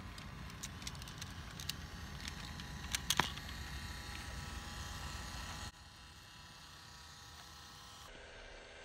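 Toy subway train set running on its track: a small electric motor buzzes with scattered clicks of the wheels on the rails, one sharper click about three seconds in. Near six seconds the sound suddenly drops quieter.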